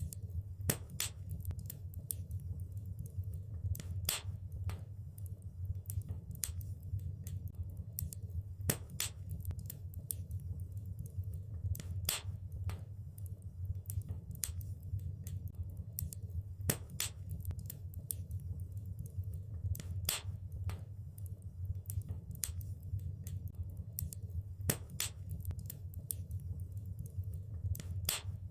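Wood fire burning in a fireplace, crackling with irregular sharp pops and snaps, a few stronger ones standing out, over a steady low rumble of the flames.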